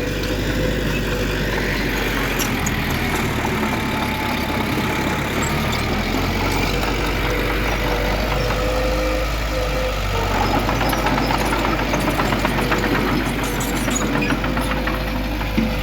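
Heavy diesel engine of earthmoving machinery running steadily, its low note shifting a few seconds in. From about ten seconds in there is a rapid clattering of metal clicks.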